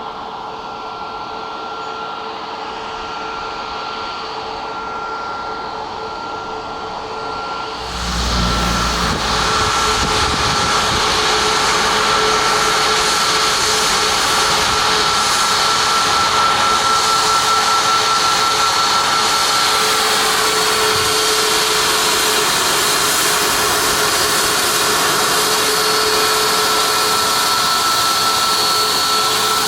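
Jet airliner engines whining steadily at low power, then spooling up sharply about eight seconds in to full takeoff thrust, a loud rushing jet blast that holds steady.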